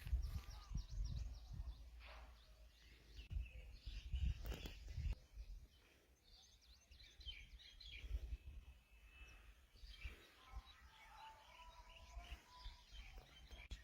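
Faint outdoor ambience with birds chirping now and then, and irregular low rumbles in the first few seconds.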